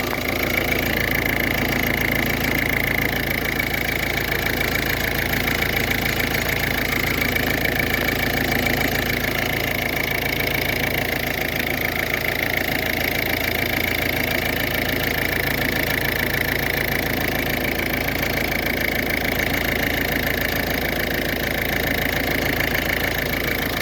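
Turbocharged engine of a 2011 Ford Focus idling steadily.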